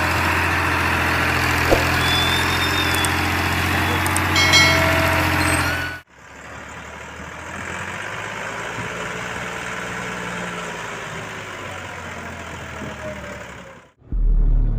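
Ford 3610 tractor engine running steadily with a deep hum. About six seconds in it cuts abruptly to a quieter stretch of engine sound that slowly rises and falls in pitch.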